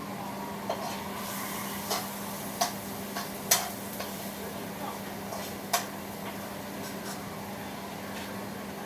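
Cooking pan and utensils: several sharp, light clicks and taps scattered irregularly, the loudest about three and a half seconds in, over a steady low hum and faint hiss.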